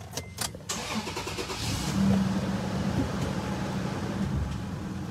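Toyota Tacoma pickup's engine being started: the starter cranks briefly, the engine catches in under a second, flares up about two seconds in, then settles to a steady idle.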